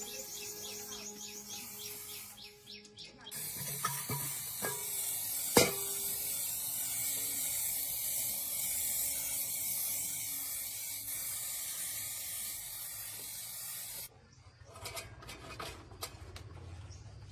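A steady spraying hiss starts suddenly a few seconds in and runs for about ten seconds, then cuts off suddenly. A single sharp click comes shortly after it starts.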